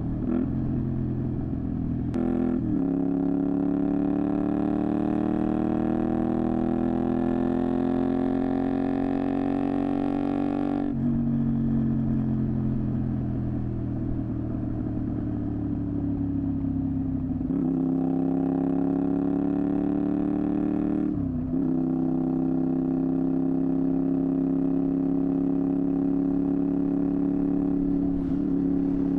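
Honda VTR250 V-twin engine through a Moriwaki exhaust, under way: the pitch climbs steadily as it accelerates, then falls for several seconds once the throttle is rolled off about eleven seconds in. Short breaks in the engine note, about two seconds in and again near eighteen, twenty-one and twenty-eight seconds, are gear changes.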